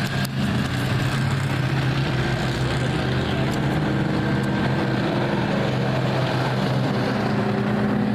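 Car engines running steadily at low speed, holding an even pitch.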